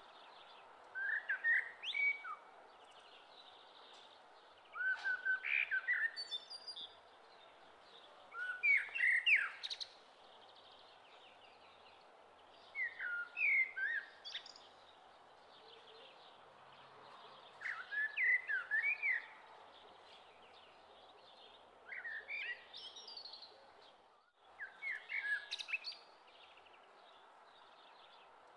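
A bird singing short, quick chirping phrases, one every three to four seconds, over a steady hiss.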